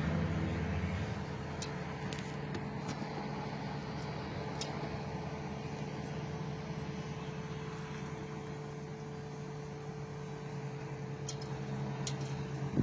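Engine of CBRL unit 1909 running steadily after a hard start, a low even hum with a steady whine over it and a few faint ticks. A sharp knock comes near the end.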